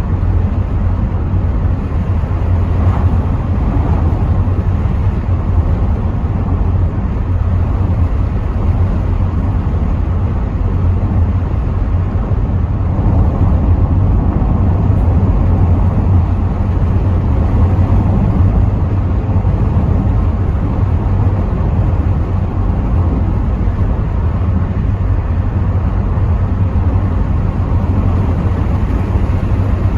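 Rover 75 V6 estate driving, heard from inside the cabin: a steady low rumble of engine and road noise, with wind coming through the partly open windows.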